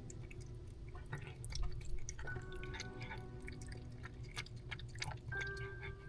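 Cats chewing food at a feeding bowl: many small irregular clicks of eating.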